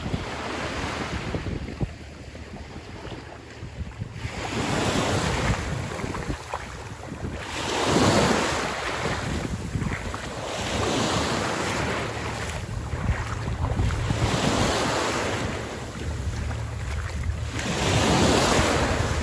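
Small sea waves breaking and washing up a sandy beach, a fresh wash swelling and fading every two to three seconds, with wind rumbling on the microphone.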